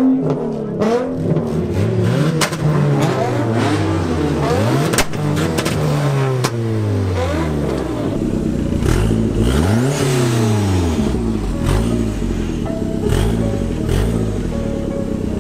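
Several car engines revving at once, their pitch rising and falling over and over in overlapping revs, with a few sharp cracks in between. About ten seconds in one engine revs up and drops back, and the engine sound then settles to a steadier, lower running.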